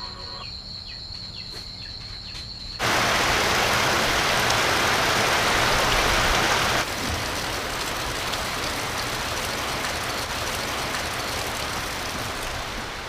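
A steady, even rushing noise that cuts in suddenly about three seconds in, loudest for the next few seconds and then a little lower.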